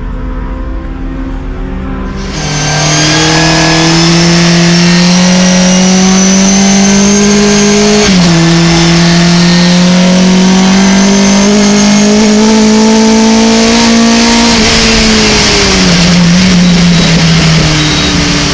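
Race pickup truck's engine pulling hard under full throttle. Its pitch climbs, drops once at an upshift about eight seconds in, climbs again, then falls as the throttle comes off near the end.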